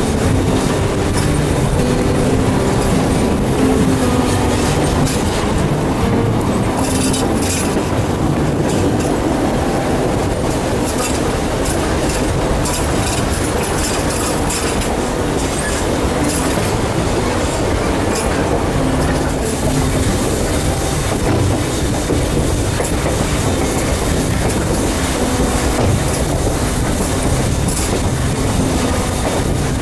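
Durango & Silverton narrow gauge train running along the track, a steady rumble with the wheels clattering over the rails.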